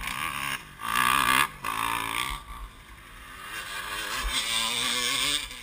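Yamaha YZ450F four-stroke single-cylinder motocross engine revving hard in bursts, the pitch climbing and falling; it drops back about two and a half seconds in, then builds again before cutting back at the end.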